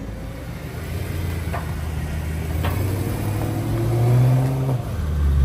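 Car engine pulling away close by, its note climbing in pitch and loudness over a couple of seconds, then dropping suddenly and settling into a steady note near the end.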